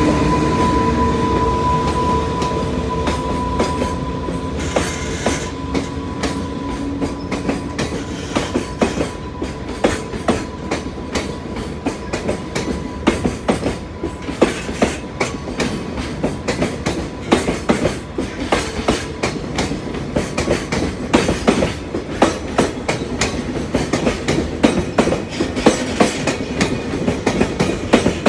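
Freight train departing, its loaded container wagons rolling past with wheels clattering over the rail joints in a rhythm that quickens as the train gathers speed. A steady whine fades away over the first few seconds.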